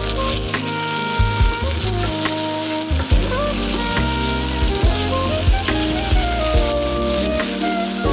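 Slices of polenta frying in hot oil in a pan: a steady sizzle with small crackles, with background music playing over it.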